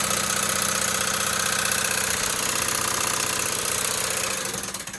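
Sunville 9000 BTU air-conditioner indoor unit running with a fast, continuous clinking rattle, a fault that appeared after the unit was dropped. The noise dies away near the end.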